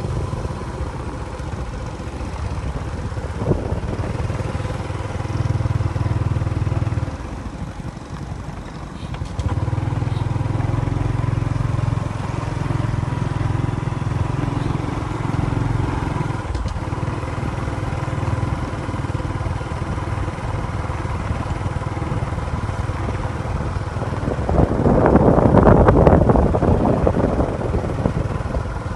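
A vehicle engine running steadily, easing off briefly about a quarter of the way in and swelling louder near the end.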